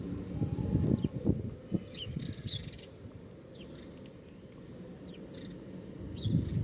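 Small birds giving short, high, falling chirps over irregular low fluttering and rumbling noise, with a brief high buzz about two seconds in.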